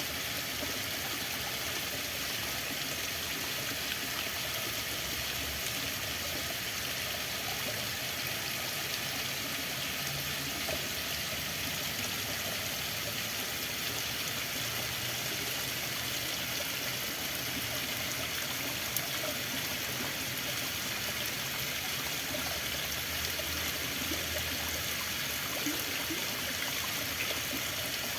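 Running water flowing steadily with an even, unbroken rush.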